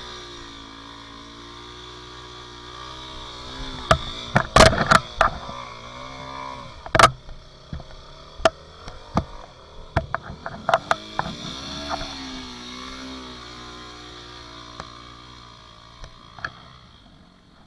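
Dirt bike engine running with its revs rising and falling, over many sharp knocks, the loudest a cluster about four to five seconds in and one at seven seconds.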